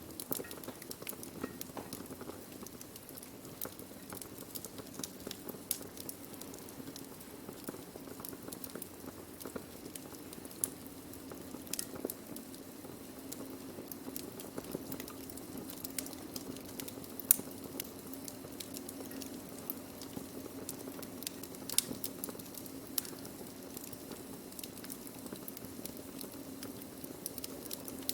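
Burning wood crackling: irregular sharp pops and snaps over a steady low rumble, with one louder pop about seventeen seconds in.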